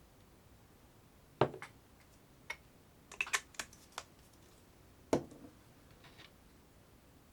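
A few sharp clicks and knocks at irregular intervals: a loud knock, a quick run of clicks, then another loud knock, like small hard objects being handled.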